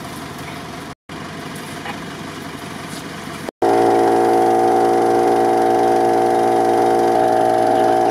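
Off-road vehicle engine running. After a cut about three and a half seconds in, a much louder, steady engine drone takes over, holding several even tones at constant revs.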